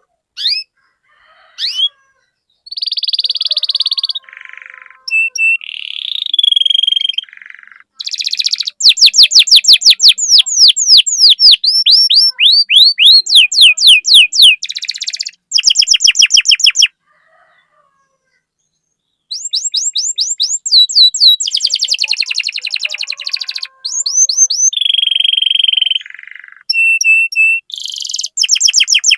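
Domestic canary singing: fast trills of rapidly repeated falling notes alternating with held, buzzy and whistled phrases, with a silent break of about two seconds in the middle.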